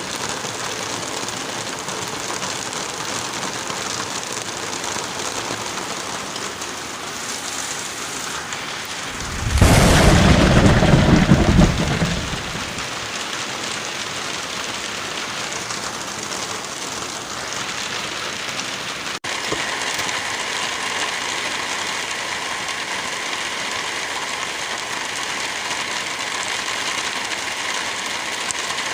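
Steady rain with a thunderclap about a third of the way in. The thunder rumbles for a couple of seconds, loudest in the low range, then the rain carries on alone.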